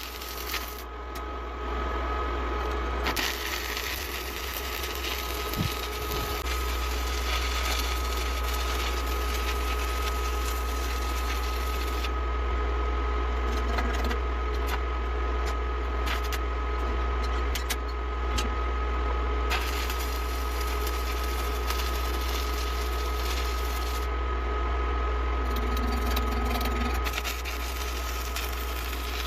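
Stick (shielded metal arc) welding in a workshop, played back sped up: a fast, dense crackle over a steady low hum and a high steady tone, with the hiss thinning out for a few seconds at a time.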